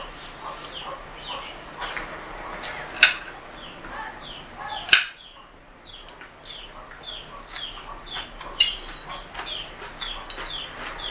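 Birds chirping over and over, short falling chirps about two a second. About three and five seconds in come loud sharp clicks of a fork on a plate while eating.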